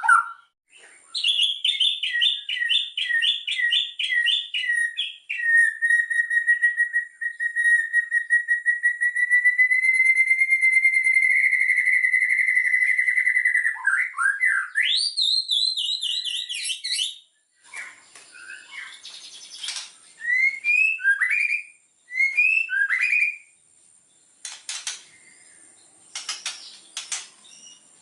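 White-rumped shama singing a varied song with mimicked 'isian' phrases. It opens with rapid repeated notes, then holds a fast trill for about eight seconds and climbs into a rising run. The second half turns quieter, with short upward-slurred whistles and a few sharp clicks.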